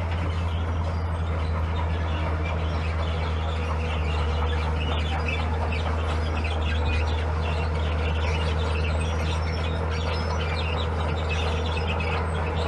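Heavy diesel engine of a bulldozer running steadily under load with a deep, even drone. An irregular high-pitched chirping and clattering runs above it and gets busier about a third of the way in.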